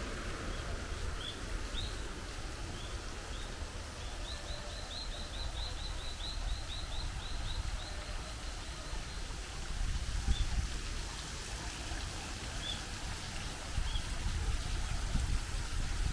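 A small bird chirping in short rising notes, scattered at first, then a quick run of about four or five a second for several seconds, then a few more near the end, over a steady background rush.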